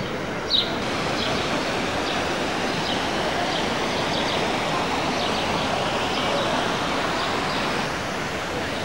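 Short high bird chirps, about one a second and the loudest about half a second in, over a steady hiss of outdoor ambient noise.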